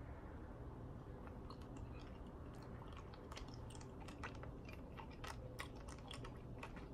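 Faint mouth sounds of someone eating a Turkish pepper salty-licorice hard candy: a run of small, irregular clicks as the candy is worked between the teeth, growing busier after the first second or so.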